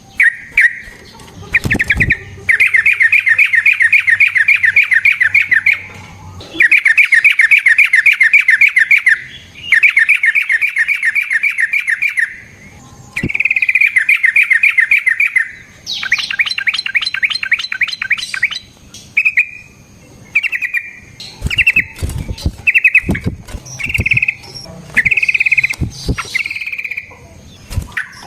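Yellow-vented bulbul (trucukan) singing long, rapid trilled phrases, each a run of fast rattling notes lasting two to three seconds, with short pauses between them. In the last third the phrases break into shorter bursts, with a few low knocks among them. This is the long 'ropel' song used to provoke other bulbuls into answering.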